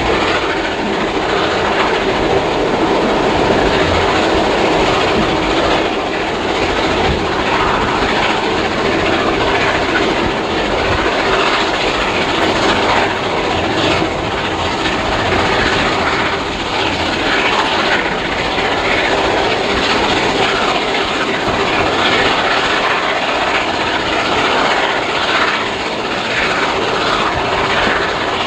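Passenger carriage of a heritage steam-hauled train running along the line: a steady, loud rumble of wheels on rails.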